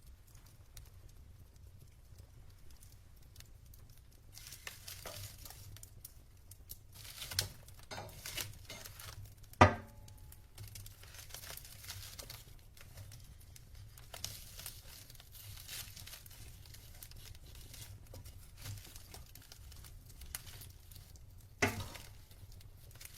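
Wood fire burning in a fireplace: logs crackling with irregular small snaps and stretches of hiss, and two loud sharp pops, one about ten seconds in and one near the end.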